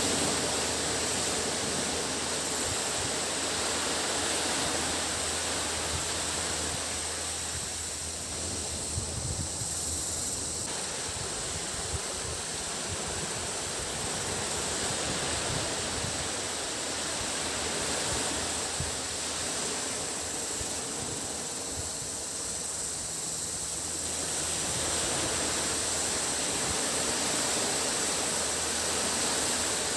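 Sea waves washing on a beach, the surf swelling and easing every ten seconds or so, under a steady high-pitched drone of cicadas.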